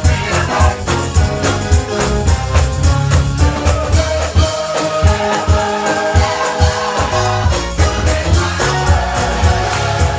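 Church choir singing a gospel song with band accompaniment: a steady beat and heavy bass. The bass drops away for a few seconds in the middle under a held chord, then returns.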